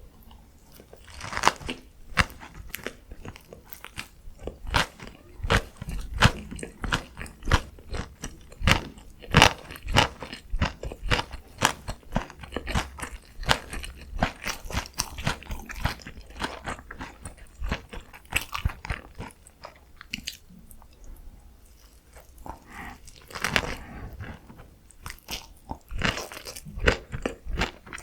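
Close-miked ASMR eating: a person biting and chewing food, with many crisp, crackly crunches and wet mouth sounds. The chewing eases off briefly about two-thirds of the way through, then a fresh bite starts.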